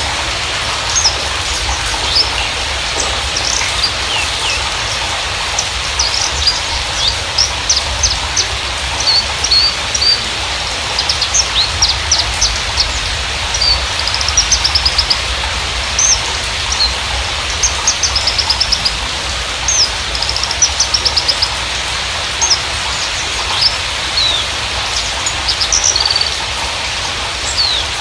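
Javan bushlark (Mirafra javanica parva) singing a continuous run of short high chirps, sweeps and quick trills, over a steady hiss.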